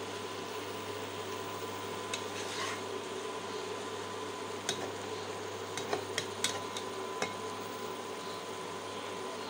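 Shredded potato and egg bhaji sizzling in oil in a nonstick wok as a spatula stirs it, over a steady hum. Sharp clicks and scrapes of the spatula against the pan stand out, most of them between about five and seven seconds in.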